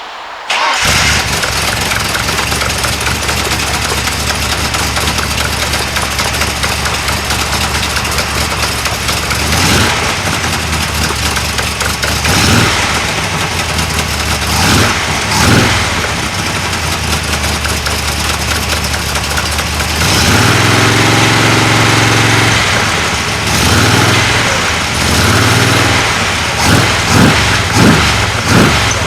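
Ford 351 Cleveland V8 firing up about a second in and running loud at idle. It is blipped with short throttle revs, held at higher revs for about two seconds some two-thirds of the way through, then blipped quickly several times near the end.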